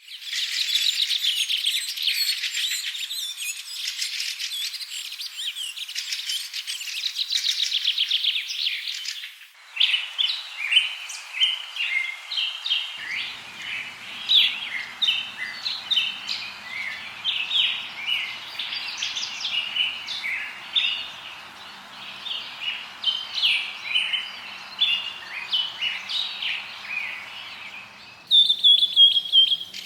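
Songbirds chirping and singing: a dense stream of quick high chirps, switching abruptly about nine seconds in to many separate short chirps over a soft hiss, then near the end to a fast high trill. A faint low hum sits under the middle part.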